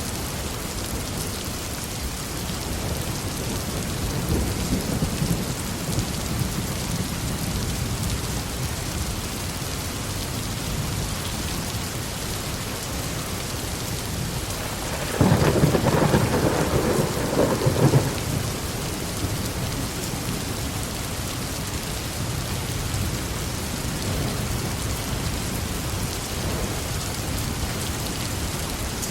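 Heavy rain falling steadily through a thunderstorm, with a distant roll of thunder about four seconds in and a close, loud thunderclap rumbling for about three seconds around the middle.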